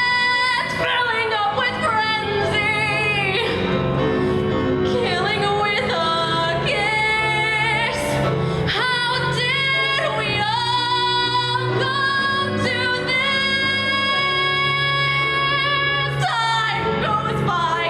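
A woman singing long, held notes with a pronounced vibrato over steady instrumental accompaniment.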